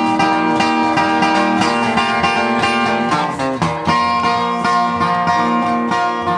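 Picked acoustic guitar playing an instrumental break in a folk ballad: a run of quick picked notes over held chords.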